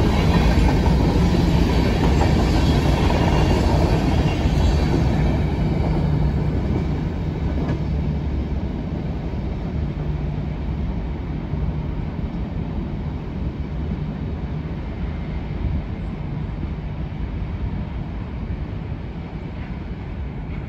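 Covered hopper cars of a grain train rolling past, with steady wheel and rail noise that fades gradually as the end of the train moves away.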